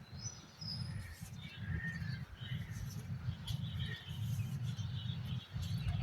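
Small birds chirping here and there in the background, with short high chirps throughout, over a steady low rumble.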